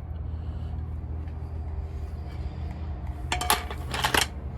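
Metal tools or parts clinking sharply in two short clusters, about three and a half and four seconds in, over a steady low hum.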